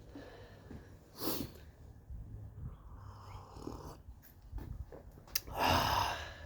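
A person breathing hard with effort, ending in a louder breathy exhale or grunt near the end, with a few light knocks in between.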